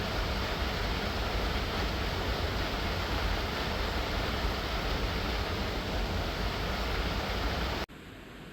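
Steady rush of a waterfall's falling water, heavy in the low end, cutting off suddenly near the end.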